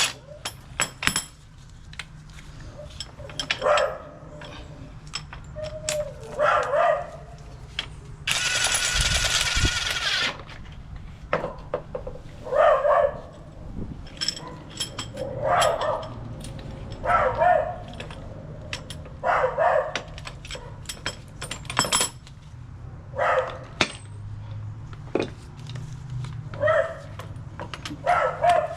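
A dog barks again and again in short single barks every two or three seconds, among sharp metal clinks of tools and parts. About eight seconds in, a power tool runs in one burst of about two seconds.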